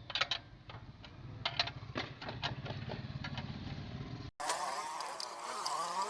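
Small generator engine running with a steady low hum, with several sharp clicks and knocks over it. About four seconds in the sound cuts off abruptly and is replaced by wavering pitched tones.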